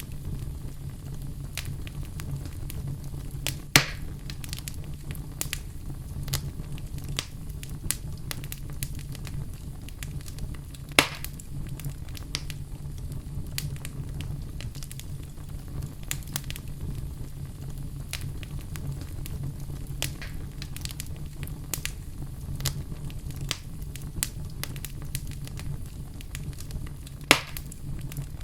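Fire burning in a fireplace, crackling with frequent small snaps over a steady low rumble. Three louder pops stand out: one about four seconds in, one near the middle, and one near the end.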